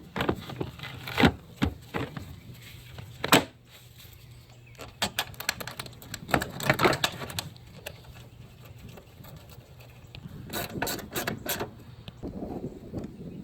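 Ratchet wrench clicking in short runs, with scattered metal knocks and taps from hand tools.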